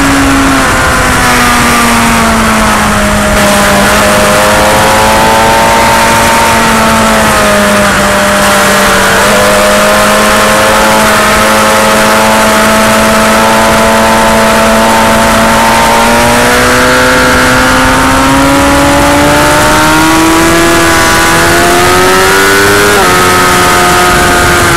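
Motorcycle engine running at speed on a race track. Its pitch eases down in the first seconds and holds low through the middle, then climbs steadily over the last third, with an abrupt shift in pitch near the end. A steady rush of wind noise runs under it.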